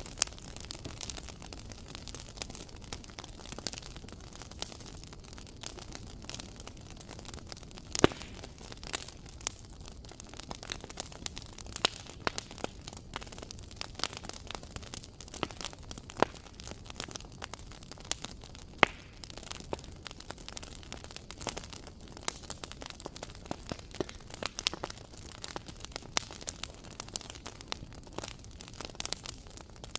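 Wood fire crackling in a fireplace: irregular sharp pops and snaps over a steady low rumble and hiss, with two louder pops about eight seconds in and near nineteen seconds.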